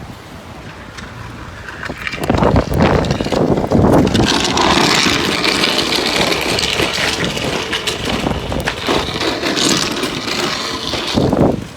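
Strong thunderstorm wind gusts blasting across a phone microphone, surging about two seconds in and staying loud until near the end.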